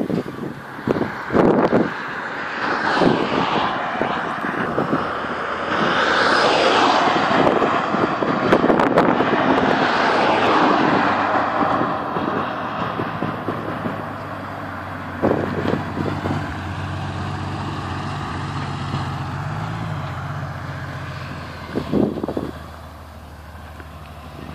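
Porsche 993's air-cooled flat-six exhaust through Dansk 300S sports mufflers, largely buried under gusting wind noise on the microphone. In the second half the engine note comes through steadily, rising briefly about twenty seconds in.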